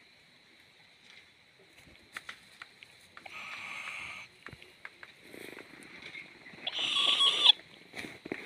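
Young owl giving two hissing calls about a second long, the second near the end louder than the first, with scattered small clicks between them.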